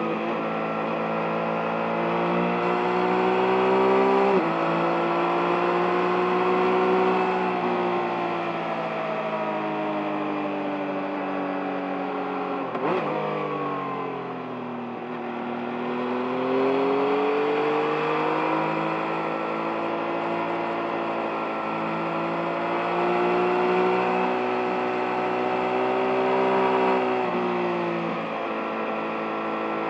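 2023 Yamaha MT-09's 890 cc inline three-cylinder engine on the move, its pitch climbing and falling as the throttle is worked through the bends. The revs drop suddenly about four seconds in and again near the end, like upshifts. They fall to their lowest around the middle, after a sharp click, before climbing again.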